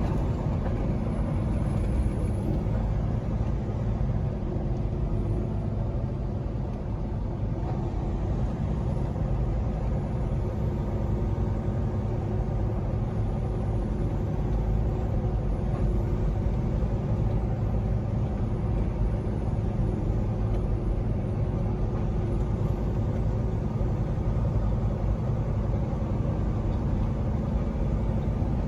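Peterbilt 389 semi truck driving at a steady speed: an even, unchanging drone of engine and road noise.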